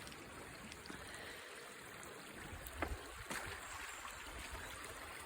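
Wind on the microphone: a steady rushing with uneven low buffeting and a couple of faint knocks about three seconds in.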